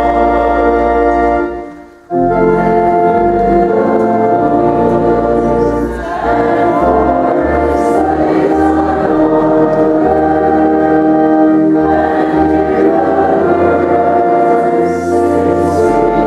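Voices singing a hymn together with organ accompaniment, held notes over a low bass line. The sound dips briefly about two seconds in and then resumes at full strength.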